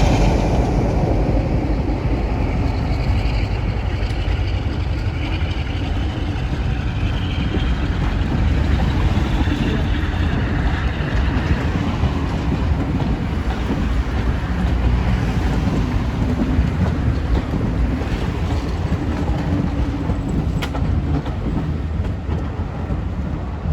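Diesel-hauled heritage train running along the line, a steady sound with most of it low down.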